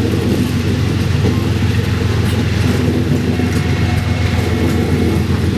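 Steady low vehicle rumble, even and unbroken.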